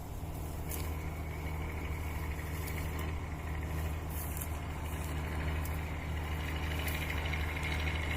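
Engine of wheat-harvesting machinery running steadily: a low hum with a higher mechanical whine that joins about a second in and grows a little louder toward the end.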